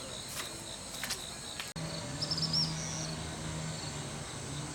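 Crickets chirping steadily, with a few sharp knocks in the first second or so. After an abrupt cut, a low steady hum joins in, with a brief high warble.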